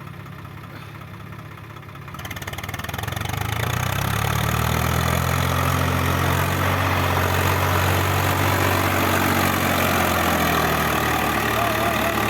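Swaraj 744 tractor's three-cylinder diesel engine ticking over, then opened up about two seconds in and held at high power, running much louder.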